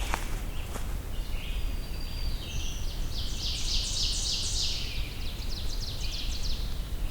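A songbird singing a few seconds of high, thin notes that turn buzzy and loudest midway, then fade, over a steady low outdoor rumble.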